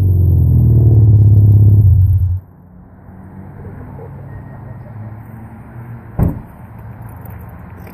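A 2007 Hyundai Accent's four-cylinder engine idling through a new Vibrant stainless steel 14-inch resonator exhaust, with a steady low note. About two and a half seconds in it suddenly becomes much quieter and carries on as a faint low hum. A single sharp knock comes about six seconds in.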